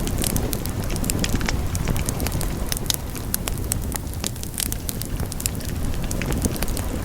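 Wood fire burning in a fireplace: a steady low rumble and hiss of the flames with frequent, irregular sharp crackles and pops.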